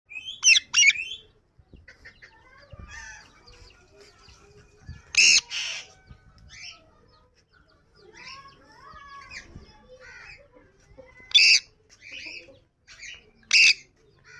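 Yellow ring-necked parakeet calling: short, loud, shrill screeches every few seconds, with softer wavering chatter in between.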